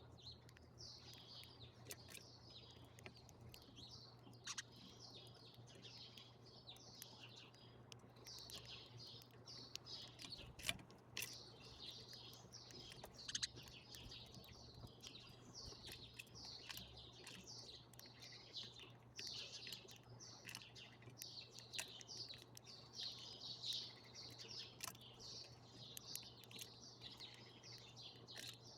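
Small birds chirping continuously and faintly, a dense chatter of many short high notes overlapping one another, with a few sharp ticks scattered through it.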